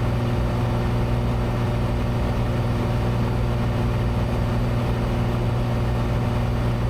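Cessna 182's piston engine and propeller droning steadily in flight, heard from inside the cabin: a constant low hum with several even tones and no change in pitch.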